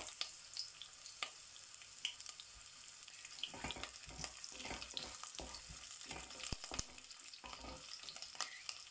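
Sliced green chillies and coconut pieces sizzling steadily in hot coconut oil in a pan. From about halfway through, a spatula stirs them in repeated scraping strokes across the pan bottom.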